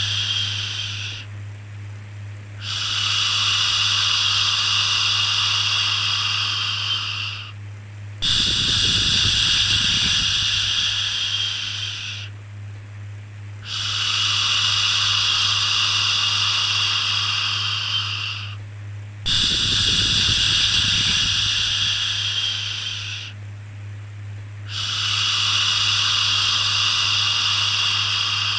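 A long 'shhh' shushing sound, repeated about five times in a slow rhythm. Each hiss lasts around four seconds, with a short break of about a second between them, over a steady low hum.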